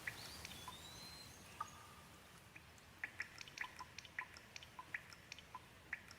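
Gentle rain: a faint steady hiss with many separate drops pattering close by, coming thicker after about three seconds. A short high whistling tone sounds near the start.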